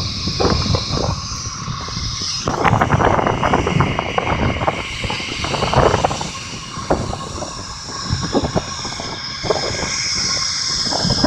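Jet airliner engines running: a steady high whine over a broad rumble, with wind buffeting the microphone.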